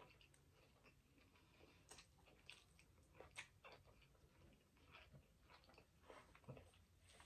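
A person chewing food with the mouth closed: faint, irregular small wet clicks and smacks.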